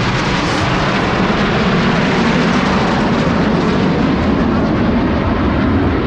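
Aermacchi MB-339 jets flying the crossing manouevre: loud, steady jet engine noise with no break.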